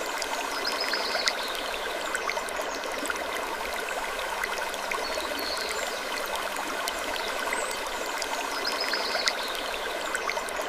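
Steady rushing noise like running water, with scattered faint clicks and brief high squeaks, in a pattern that repeats about every eight seconds.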